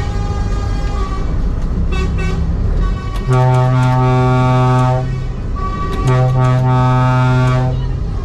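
A truck's deep horn sounding two long blasts of about a second and a half each, with a short gap between, over steady diesel engine rumble; fainter, higher horn toots sound in the first few seconds.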